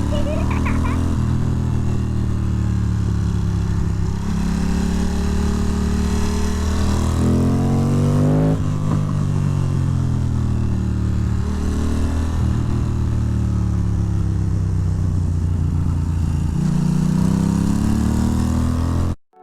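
Ducati Monster 620's air-cooled L-twin engine heard from on board while riding, its pitch climbing under acceleration, dropping sharply about eight seconds in as it shifts, then climbing again near the end. Wind rush runs underneath, and the sound cuts off abruptly just before the end.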